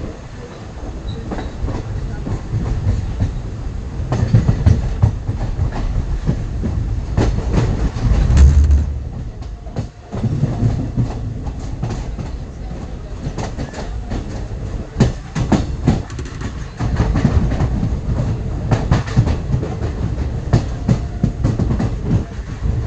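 Passenger train running, heard from aboard: a steady low rumble with clusters of wheel clacks over rail joints, and one heavy low thud about eight seconds in.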